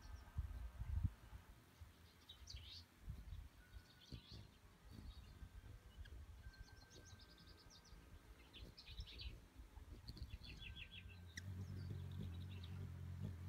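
Small birds singing short, faint trilled phrases every second or two. A steady low hum joins in about eleven seconds in.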